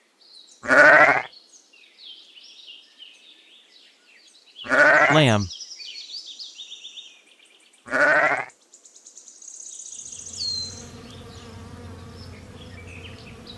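Sheep and lambs bleating: three loud, wavering bleats, about a second in, around five seconds and around eight seconds.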